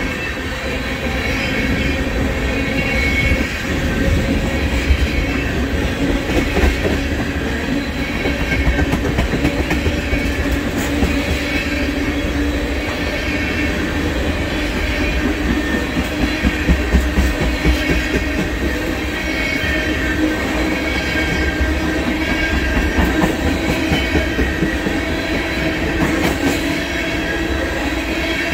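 Loaded oil-train tank cars rolling past at speed: a steady rumble and clatter of steel wheels on the rails, with faint steady ringing tones over it.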